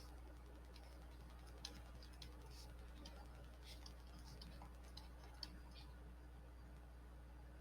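Near silence over a steady low hum, broken by faint, irregular light clicks and ticks of writing.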